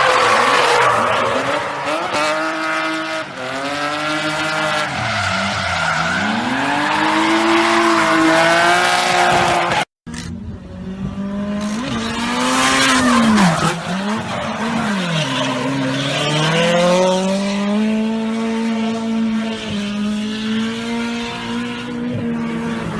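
Drift car engine revving up and down hard over screeching tyres as the car slides; a brief break about ten seconds in splits two separate runs.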